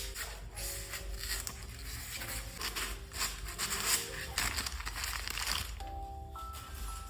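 Packaging crinkling and tearing over light background music; the rustling stops about six seconds in, leaving only the music.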